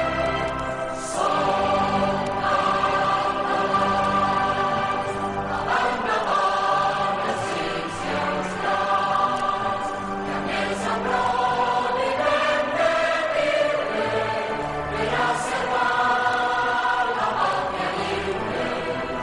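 A choir singing slow, held chords that change every second or two.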